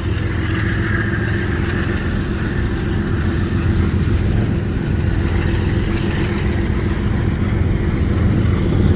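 Departing double-stack freight train led by a GE ES44AC diesel locomotive: the engine runs steadily under load over the train's rolling rumble, growing slightly louder toward the end.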